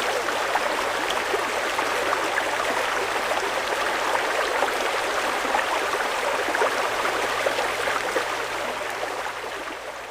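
Fast-flowing mountain river rushing steadily, with the sound beginning to fade out in the last second or so.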